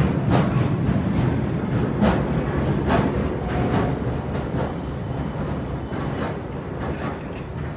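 Railway train rolling past, its wheels rumbling on the track and clacking over rail joints in irregular knocks, getting a little quieter toward the end.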